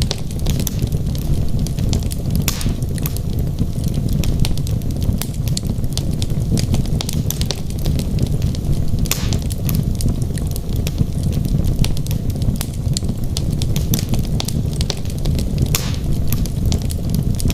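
Wood logs burning in a fireplace, crackling continuously with many small pops over a steady low rumble of the fire. Louder snaps come about two and a half seconds in, near the middle and near the end.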